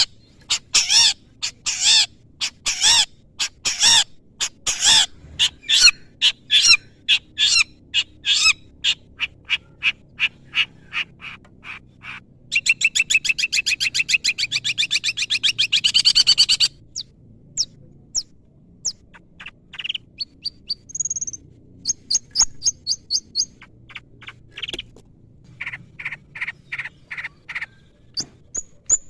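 Long-tailed shrike (cendet) singing a full, varied song laced with imitations of other birds. It opens with a quick run of loud, sharp repeated notes, breaks into a fast rattling trill about halfway through that lasts some four seconds, then gives scattered high calls and short runs of notes.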